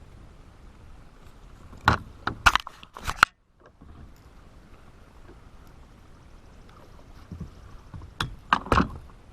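Sharp knocks and clunks of gear being handled on a kayak, in two short clusters: several about two to three seconds in, and a few more near the end.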